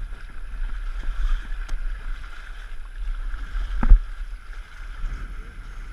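Wind rumbling on the microphone aboard a small sailboat, over a steady hiss. A single sharp knock about four seconds in.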